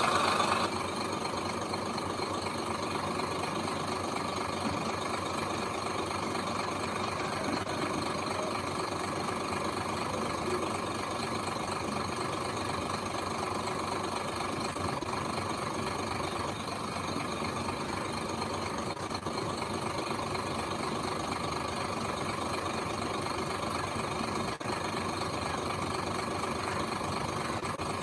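Diesel engine of heavy earthmoving machinery running steadily, with a brief louder surge right at the start.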